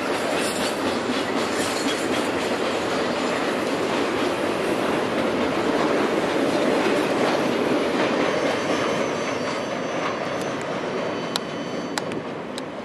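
Double-stack intermodal well cars of a freight train rolling past, wheels clattering and rumbling over the rail joints. The noise fades after about eight seconds as the end of the train passes and draws away, leaving a thin high wheel squeal and a few sharp clicks near the end.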